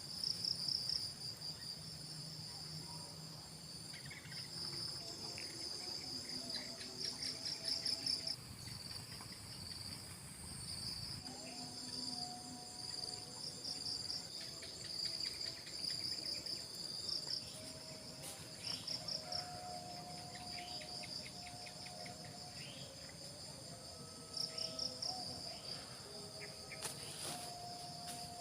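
Insects chirping in fast pulsing trains over a steady high-pitched buzz. Short falling chirps and a few held whistling notes are mixed in.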